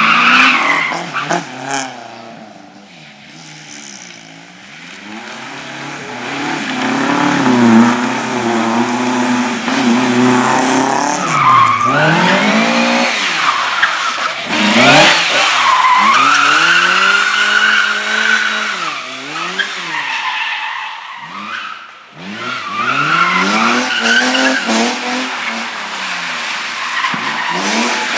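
Competition car engine revving hard, its pitch climbing and dropping again and again as it accelerates and brakes through a slalom, with tyres squealing on the turns. The car is faint for a few seconds near the start, then comes close and loud; the engine drops away briefly near the end before revving up again.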